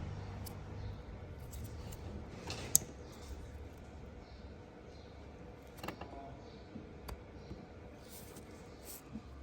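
Scattered light clicks and clinks of handled parts or tools, with one sharper click about three seconds in, over a faint steady hum.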